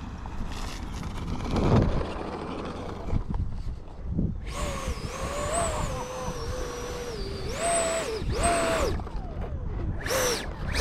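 Electric ducted fan of a 70mm F-22 Raptor model jet spooling up to a whine about four and a half seconds in, wavering and sagging slightly in pitch, then blipped in two short bursts. It is being run on the ground to blow rainwater out of the airframe.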